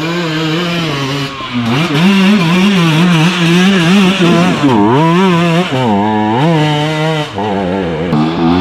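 Enduro motorcycle engine revving, the throttle worked on and off so the pitch climbs and falls every second or so, with a sharp drop and rise about five seconds in.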